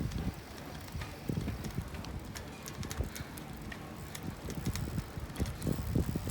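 Bicycle being ridden: a low wind rumble on the microphone with irregular knocks and sharp rattling clicks from the bike as it rolls along.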